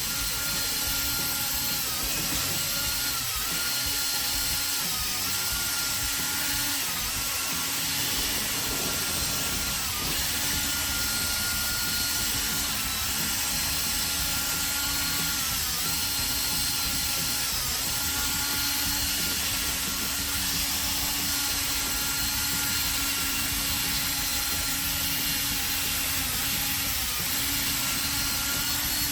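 Electric drill spinning a 3M headlight-restoration sanding disc against a plastic headlight lens. The motor whine runs steadily, its pitch dipping briefly several times, over a rough abrasive hiss.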